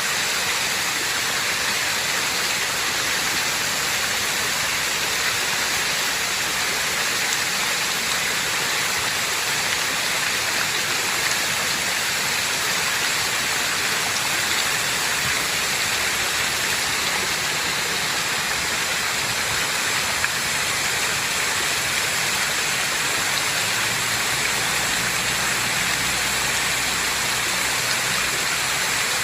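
Fountain water splashing and falling in a steady, even rush. A low hum joins near the end.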